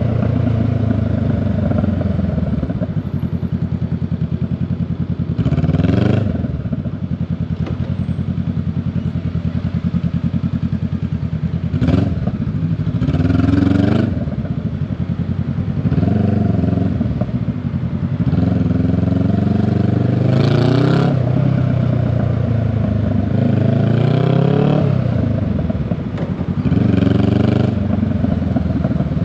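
Honda Rebel 500's parallel-twin engine and exhaust under way, the pitch repeatedly rising as it revs up and dropping back, about five or six times.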